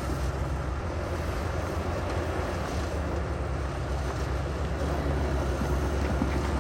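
Heavy diesel engine of earthmoving machinery running steadily with a low, even hum and rumble.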